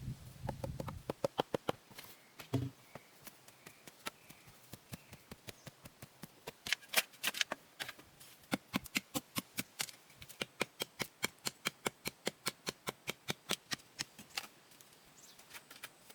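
A long series of sharp taps or clicks, uneven at first, then settling into an even rhythm of about three or four a second before stopping near the end.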